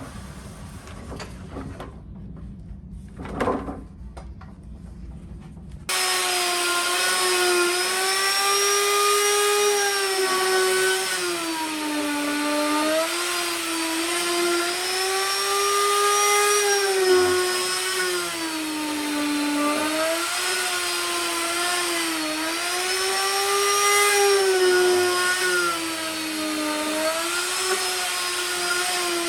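Power tool starts up about six seconds in and runs, its motor pitch repeatedly dipping and rising again every few seconds. Before it starts there is a low hum with two short knocks.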